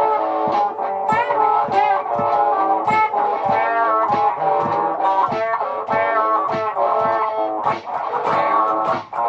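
Electric guitar playing a melodic line with bent, sliding notes over a layered, looped guitar backing with a steady percussive pulse.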